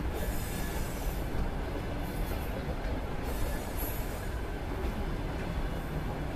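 Passenger coaches of a departing train rolling slowly past: a steady rumble of steel wheels on rail, with short bursts of high wheel squeal now and then.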